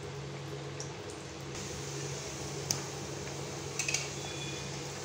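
Litti frying in hot mustard oil in a kadhai, a steady bubbling sizzle. A few seconds in, a metal spatula clicks and clinks against the pan as one is turned.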